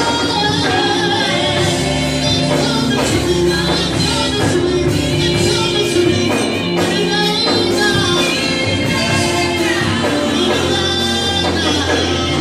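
Gospel music with singing, played by a band in a large room.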